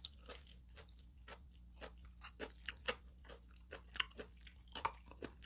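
Close-miked chewing with wet clicks and a few crunches, alongside the taps and scrapes of a spoon scooping rice out of a bowl. A sharper knock comes about four seconds in.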